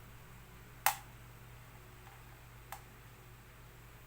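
Two clicks, a sharp one about a second in and a fainter one near three seconds, over a low steady hum.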